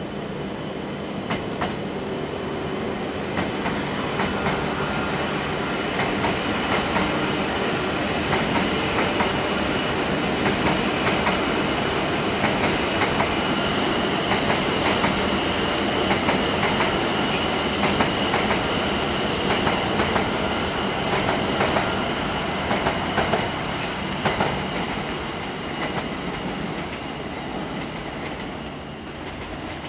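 E7 series Shinkansen train departing and pulling away, its wheels clacking over rail joints and points with a steady high whine. The sound builds to its loudest midway, then fades toward the end as the train recedes.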